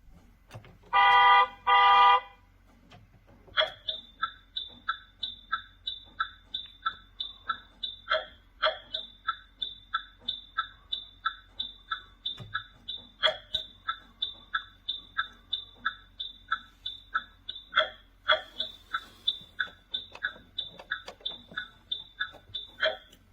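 Electronic sound effects from a HONGTUO toy school bus's speaker: two loud horn honks about a second apart, then a long run of short, high, alternating two-tone beeps, about two a second.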